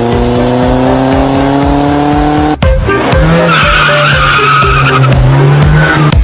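A vehicle engine revving, its pitch climbing slowly, then a sudden cut about two and a half seconds in to a steadier engine sound with a hiss over it.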